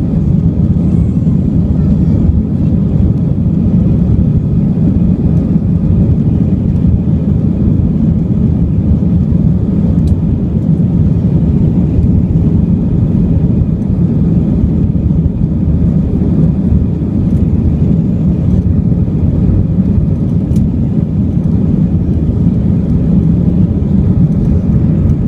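Steady low drone of an airliner's engines and airflow heard inside the passenger cabin in flight, with a faint tick twice.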